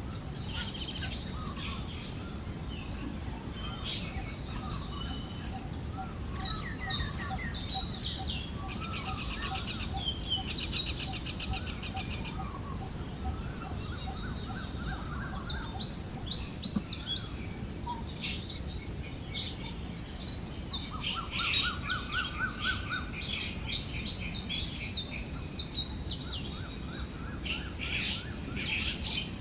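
Forest birds chirping and trilling, several calling at once, over a steady high-pitched insect drone. One bird repeats a single note evenly for several seconds near the start, and rising trills come twice. A low breeze rumble runs underneath.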